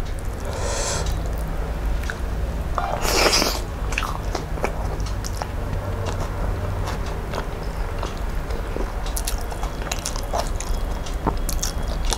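Close-miked chewing and mouth sounds of a person eating rice and curry by hand, with many small wet clicks and smacks. Two louder, noisier bursts come about a second in and about three seconds in.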